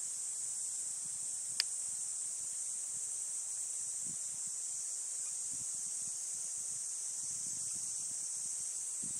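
Insects in a steady high-pitched chorus, with one sharp click about one and a half seconds in.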